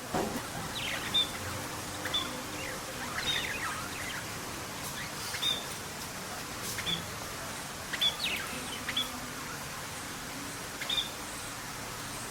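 Songbirds chirping: short, high calls, many with a quick falling sweep, repeated irregularly over a steady background hiss.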